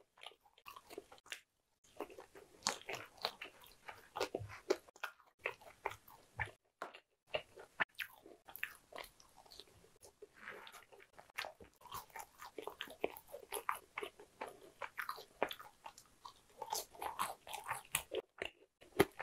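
A person chewing french fries: many short crunches and mouth clicks in quick irregular succession.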